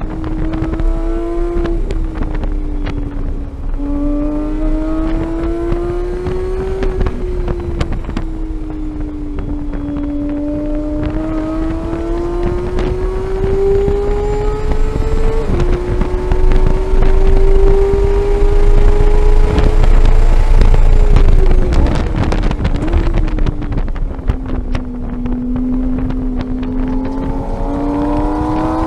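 Porsche 911 GT3's flat-six engine at full throttle under way, heard onboard. Its note climbs steadily through each gear and steps up or down sharply at gear changes, with a low wind rumble on the microphone.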